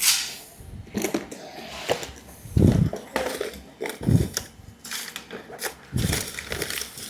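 A few irregular knocks and thumps among scattered clicks and rustling: something being handled and fitted into place.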